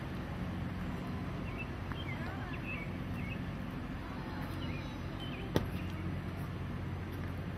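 Steady rush of the flooded Bow River, with a low hum running under it, a few faint chirps in the middle and one sharp click about five and a half seconds in.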